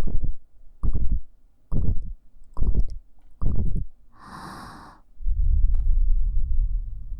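Breath blown close onto a KU100 binaural dummy-head microphone: five short low puffs about a second apart, an airy exhale, then a steady low rumble of air on the microphone.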